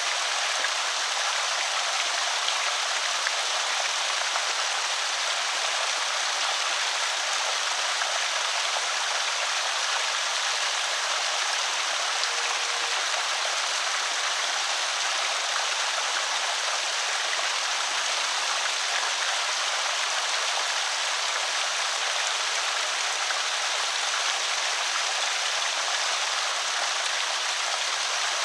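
Water pouring steadily over a small creek spillway, an even splashing rush with no change.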